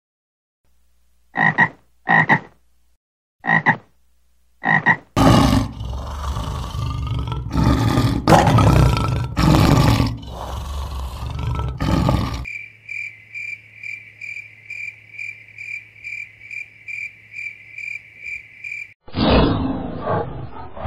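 A string of animal sounds: four short high chirps, then a lion roaring for several seconds, then a high call pulsing evenly about three times a second. Near the end a dinosaur roar sound effect begins.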